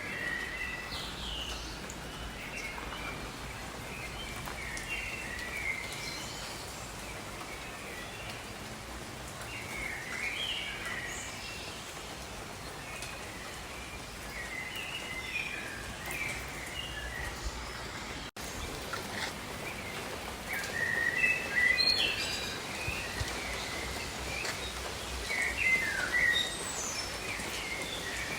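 Tropical jungle birds chirping in short clusters of calls over a steady hiss of falling rain, with one brief dropout about two-thirds of the way through.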